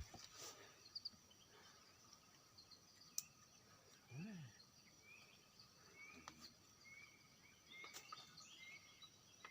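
Faint forest ambience: small birds giving short, high chirps over and over, mostly in the second half, over a faint steady insect drone.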